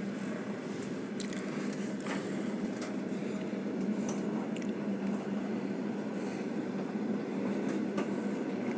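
Passenger train running at low speed, heard from inside the carriage: a steady rumble and hum with scattered clicks and faint high squeaks, getting a little louder toward the end.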